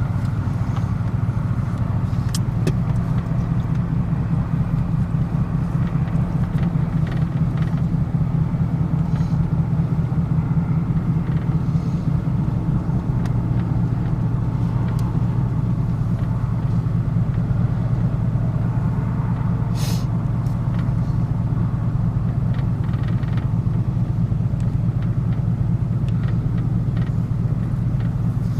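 A car crawling at low speed, heard from inside the cabin with a window down: a steady low engine and road rumble. There are a few faint short clicks, the clearest about 20 seconds in.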